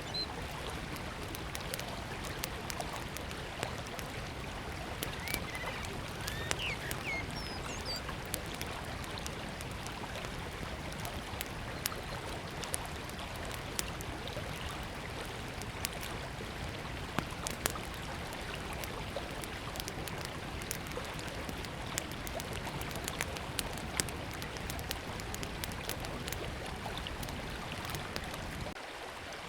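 A river flowing steadily with a small wood fire crackling over it in scattered sharp pops. A few short bird chirps come early on, about five to seven seconds in.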